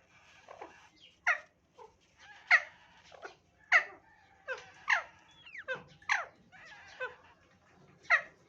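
Bird chicks begging while being fed: repeated calls that fall in pitch, about one a second, a dozen or so in all.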